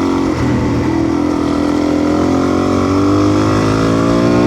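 Motorcycle engine under way: its pitch dips about half a second in, as if shifting up a gear, then rises steadily as the bike accelerates, over wind and tyre noise.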